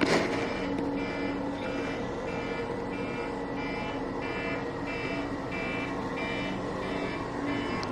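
An electronic alarm beeping repeatedly, about one and a half beeps a second, each beep a chord of several tones, over a steady low hum.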